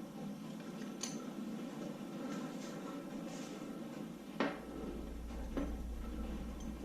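A few sharp clinks and clunks of metal engine parts being handled and set down, about a second in and a louder one past the middle, over a steady background hiss; a low hum comes in after the louder clunk.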